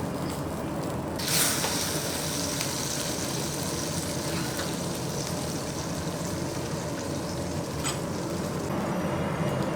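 Food sizzling over a steady low machine hum, with a louder flare of hissing about a second in and a short click near the end.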